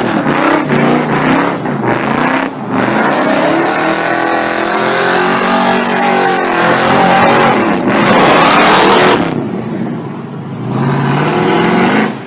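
Car engine revving hard, its pitch rising and falling several times, over a hiss of tyre noise as the car drifts.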